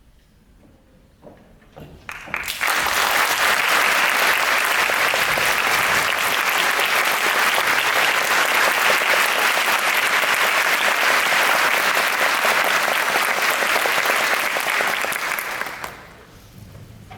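Audience applauding: a few scattered claps, then full, steady applause from about two seconds in, dying away near the end.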